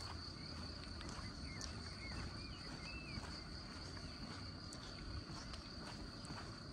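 Light rain ambience with faint drips and ticks, over a steady high-pitched whine. A few short bird chirps come between about a second and a half and three seconds in.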